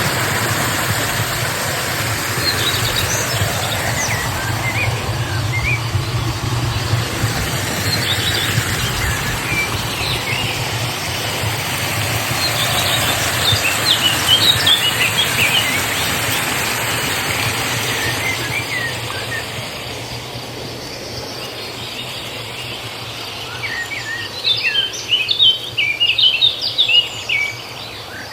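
Steady rush of flowing stream water with small birds chirping over it. The water quietens about two-thirds of the way in, and a quick flurry of high chirps comes near the end.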